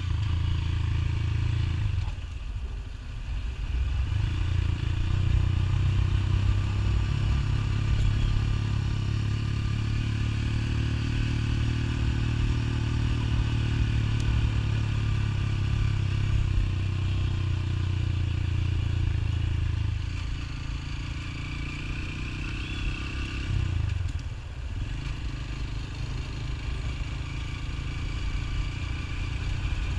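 Motorcycle engine running steadily while riding. The engine sound drops briefly twice, about two seconds in and again near the end.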